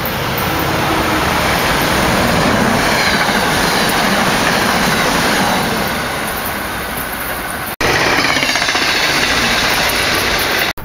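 SEPTA Silverliner IV electric multiple-unit commuter train coming up and running past close by: a loud, steady rush of wheels on rail. About three-quarters of the way through the sound cuts off abruptly and another loud stretch of passing-train noise follows.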